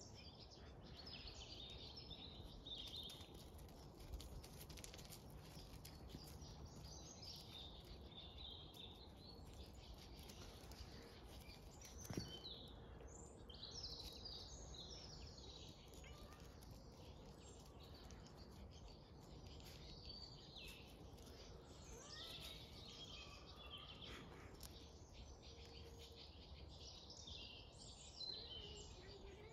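Faint birdsong, small birds chirping and twittering on and off, over a low steady background hum, with one sharp click about twelve seconds in.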